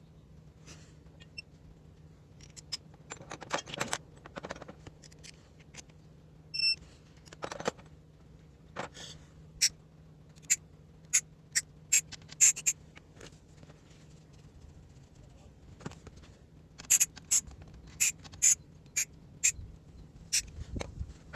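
Irregular sharp metallic clicks and clinks of hand tools and small metal parts being handled, coming thicker in the second half, with one clear ringing ping about six and a half seconds in. A faint steady low hum runs underneath.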